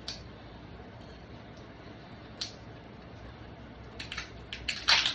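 Kitchen handling noises over a steady low hiss: a single click at the start and another midway, then a quick run of sharp clicks and knocks near the end.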